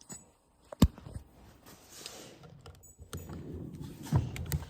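Hand tools being handled while working on a lawn mower: a sharp knock about a second in, then rustling, then a few more knocks and clatter near the end.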